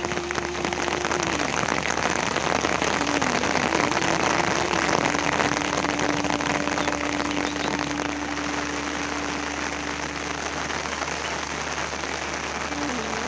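Steady rain, a dense even patter. Beneath it a faint pitched tone steps and glides, then holds one note for several seconds in the middle.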